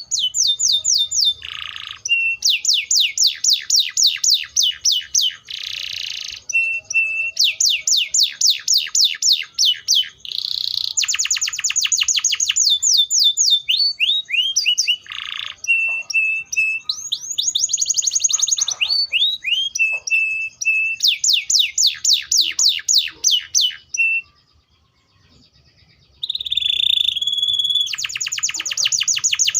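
Domestic canary singing: phrase after phrase of rapid trills of repeated sweeping notes, with short held notes between them and a pause of about two seconds about three-quarters of the way through.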